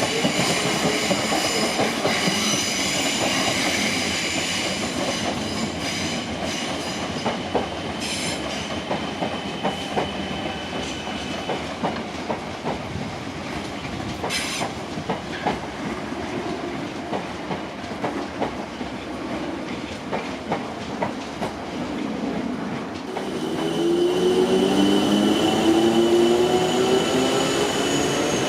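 Train wheels running through the station with a high steady squeal and a run of clicks over the rail joints. Near the end a stack of rising tones sets in, a train accelerating, with the wheel squeal steady above it.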